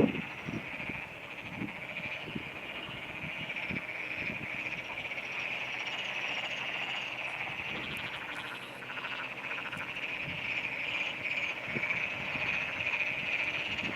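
A chorus of frogs calling together in a flooded rice paddy, a steady, dense trilling chorus.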